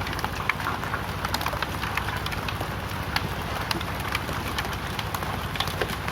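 Hail falling with rain: a steady hiss of rain and many irregular sharp ticks of hailstones striking.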